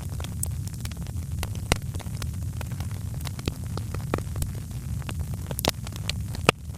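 Wood fire crackling: irregular sharp pops and snaps over a steady low rumble of the flames, with two louder pops, about two seconds in and near the end.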